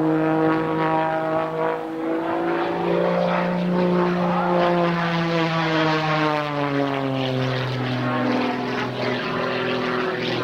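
Propeller warbird's piston engine passing by. Its droning note rises a little about three seconds in, then drops steadily in pitch through the second half as the aircraft goes past.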